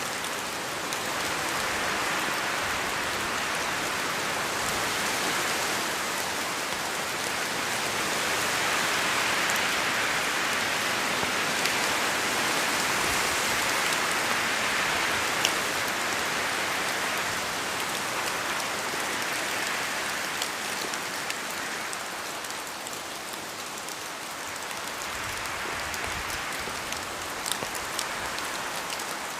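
Steady rain falling, an even hiss that slowly swells and eases, with a few sharper drops standing out.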